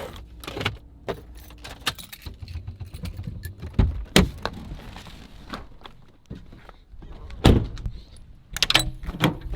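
A series of sharp clicks and knocks over a low rumble, loudest about four seconds in and again about seven and a half seconds in, with a quick cluster near the end.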